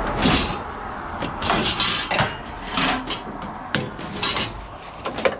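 Scrap metal clanking and clattering in a series of irregular knocks as pieces are shoved into a van already loaded with scrap.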